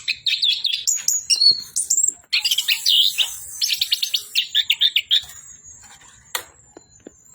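Orange-headed thrush singing a fast, varied run of chirps and whistles that stops about five seconds in; a single sharp click follows about a second later.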